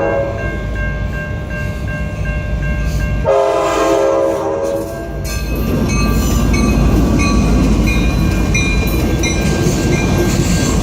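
Passenger train locomotive's horn: the tail of one blast right at the start and a second blast of about two seconds a few seconds in. The train then passes close by with a loud rumble of wheels on the rails, over a railroad crossing bell ringing steadily.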